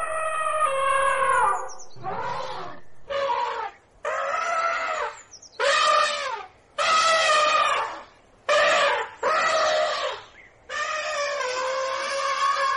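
An animal calling over and over, about ten loud pitched calls in a row, each rising and falling, most under a second and a couple longer, with short pauses between them.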